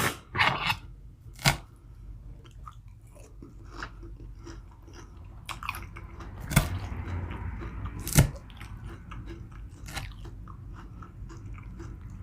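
A person chewing and biting food, with quieter continuous chewing between several sharp crunches. The crunches come in the first second and a half and again about six and a half and eight seconds in.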